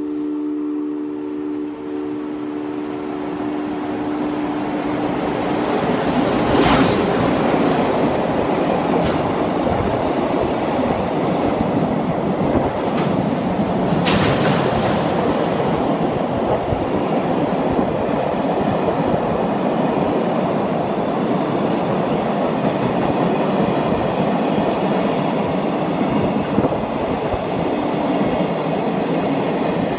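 Freight train hauled by an EF510 electric locomotive passing through a station without stopping: a rumble that builds as it arrives, then the steady rush and clatter of container and tank wagons over the rails. A steady hum of a few tones fades out in the first few seconds, and two sharp loud cracks come about seven seconds in and again about seven seconds later.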